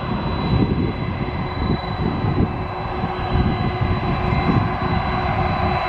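Jet engines of a Boeing 767-424ER (GE CF6-80C2 turbofans) running steadily: a whine with several held tones over an uneven low rumble.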